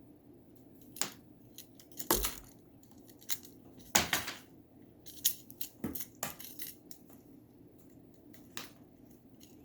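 A pet knocking and rattling a toy tube around: a run of irregular clatters and knocks, the loudest about two and four seconds in, with smaller taps between them.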